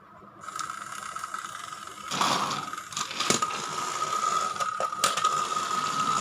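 Motorized Thomas & Friends Gordon toy train running, its small battery-powered motor and gears giving a steady high whine with a light rattle and occasional clicks. It starts up about half a second in.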